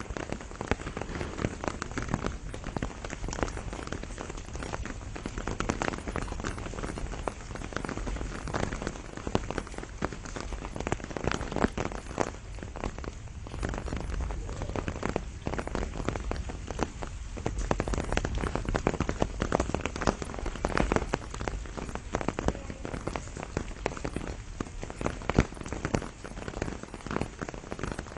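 Steady rain shower with many individual drops pattering on leaves and surfaces.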